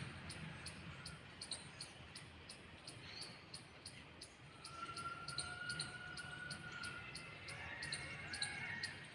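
Outdoor chorus of birds and insects: a high, sharp chirp repeating about three times a second, a long thin whistled note in the middle, and short bird chirps near the end.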